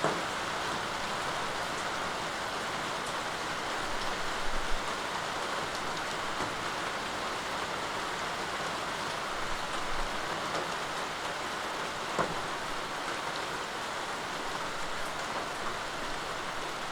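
Steady rainfall: an even hiss of rain with a few sharper individual drop ticks now and then.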